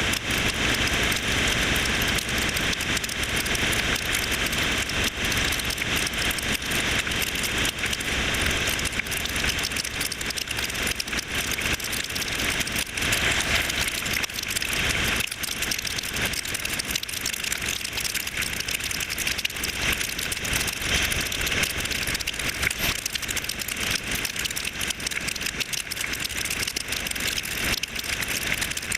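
Motorcycle riding through rain: a steady rush of rain and road noise, with many small clicks of raindrops and the engine running underneath. The rush eases a little from about halfway through.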